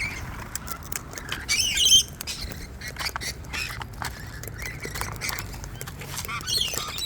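Wild cockatoos squawking, with one loud harsh squawk about one and a half seconds in and a shorter one near the end, over many small sharp clicks and taps.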